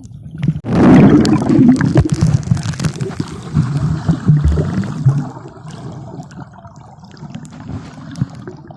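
Sea water splashing and sloshing. It starts suddenly and loud under a second in, then settles to a quieter gurgling wash after about five seconds.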